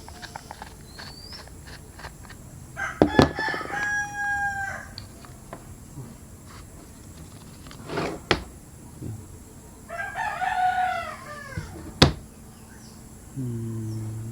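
Two long bird calls, the first held steady and the second bending in pitch about ten seconds in, with a few sharp knocks from handling the electric kettle's base.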